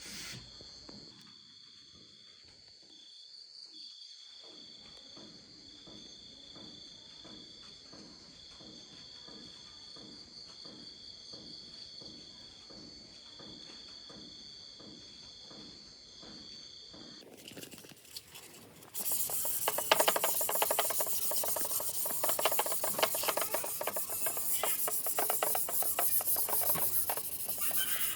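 Abrasive rubbing on a wooden surface: faint rhythmic strokes at first, then loud, dense, rasping strokes from about two-thirds of the way through.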